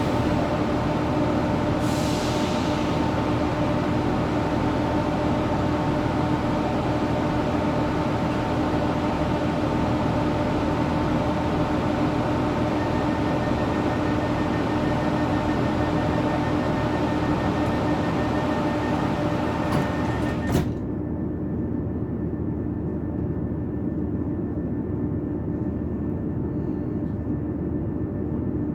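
Steady running noise inside a passenger train carriage, with a constant hum under it and a short hiss about two seconds in. About two-thirds of the way through, the sound suddenly turns duller and a little quieter.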